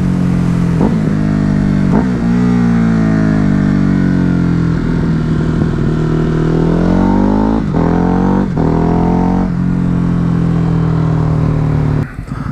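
Ducati Hypermotard's L-twin engine under way on the road. Its note falls, climbs again and holds steady, with several brief breaks, then drops away sharply near the end as the throttle is closed.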